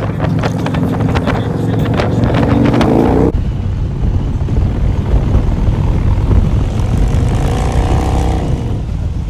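Motorcycle engines running on the road, with wind buffeting the microphone. About three seconds in the sound changes abruptly to a heavier low rumble, and near the end an engine rises in pitch as it speeds up.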